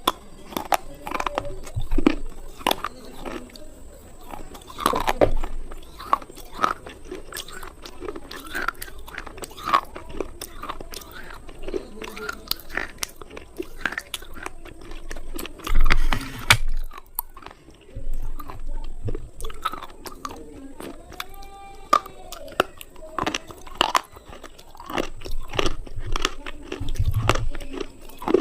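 Slate pencils being bitten and chewed close to the microphone: a dense run of sharp, brittle crunches, with a few louder bites along the way.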